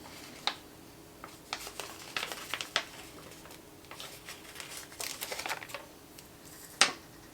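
Paper sticker sheets and planner pages being handled: light rustling with scattered small clicks and taps, and one sharper tap near the end.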